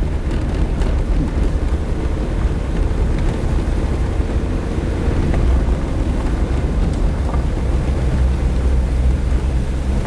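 Suzuki Jimny driving on a dirt road: a steady, loud low rumble of engine and road noise.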